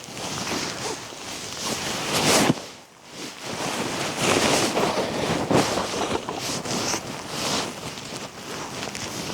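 Strong wind blowing in gusts and buffeting the microphone, with a brief lull about three seconds in.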